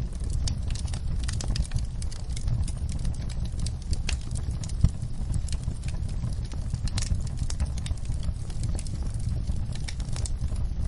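Wood fire crackling in a fireplace: a steady low rumble of flame with irregular sharp pops and snaps, one louder pop about five seconds in.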